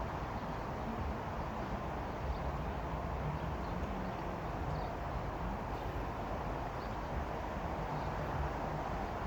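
Steady vehicle noise, an even rumble and hiss that holds level throughout, with a few faint high chirps.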